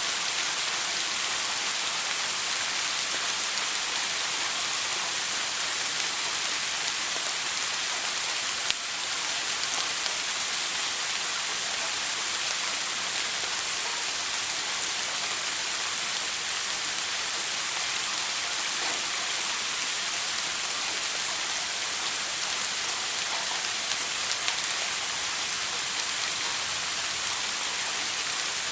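Shower water running steadily, an even hiss of spray falling onto a hard surface, with one brief click about nine seconds in.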